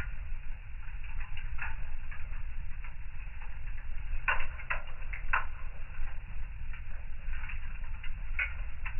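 Wood fire in a fireplace crackling, with irregular sharp pops over a steady low rumble. A quick run of louder pops comes about halfway through.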